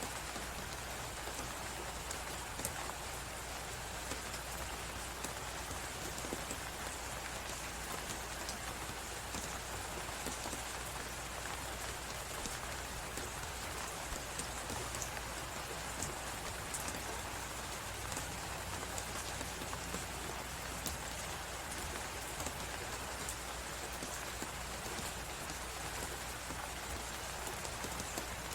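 Wood fire crackling with frequent small pops over a steady hiss of blizzard wind.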